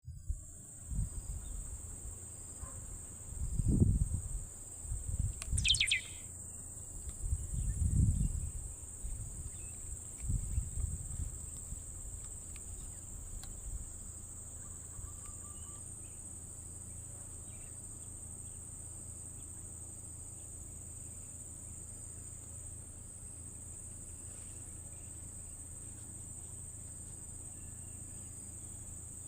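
Steady high-pitched drone of insects, crickets or cicadas, running throughout. Several low rumbles come in the first ten seconds or so, and a short falling bird call sounds around six seconds in.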